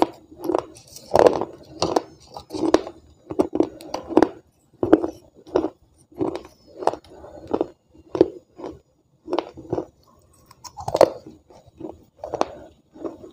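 Close-up crunchy chewing of wet clay-pot pieces, in a steady run of bites with sharp crackles, about one and a half a second, pausing briefly near the end.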